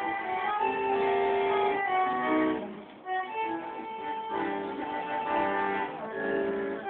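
Bandoneon playing held chords and melody notes, with plucked string accompaniment; the music thins briefly about three seconds in, then resumes.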